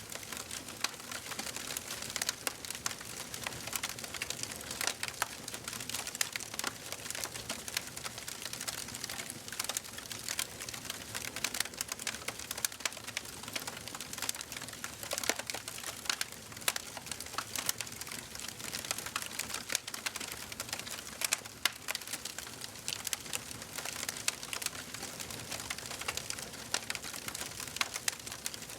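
Wood fire burning in a fireplace, crackling with a dense, irregular stream of sharp pops and snaps over a soft steady hiss.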